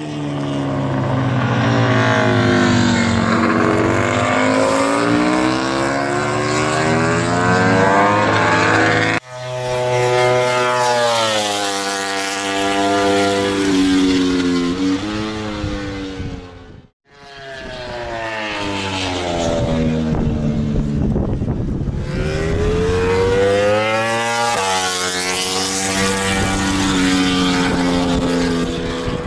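Honda RC213V MotoGP bike's 1000 cc V4 engine being revved during warm-up, its pitch rising and falling again and again. The sound breaks off abruptly twice, about nine and seventeen seconds in.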